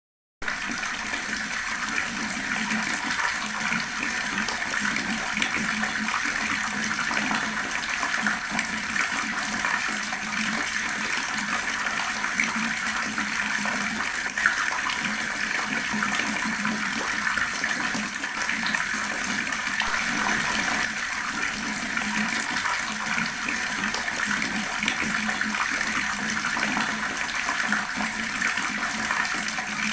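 Water running steadily from a tap and gurgling, starting about half a second in.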